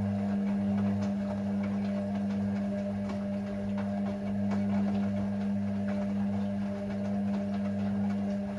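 Hoover Six Sportswear 1300 (AI130) washing machine running early in a Speed Wash cycle: a steady electrical hum with faint scattered ticks.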